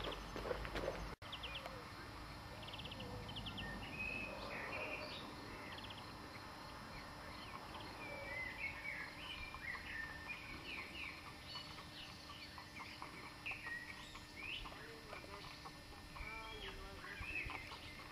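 Small birds chirping and calling in short notes throughout, over faint clopping and crunching of a horse's hooves and people's steps on a gravel lane as the horse walks forward pulling a cart.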